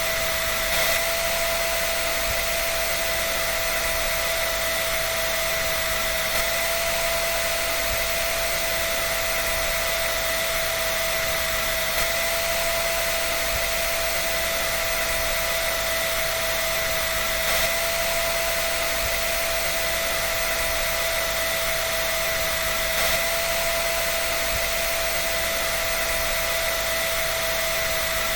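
Hair dryer running steadily: a constant rush of air with a high motor whine over it and little low rumble. A faint tick recurs about every five and a half seconds.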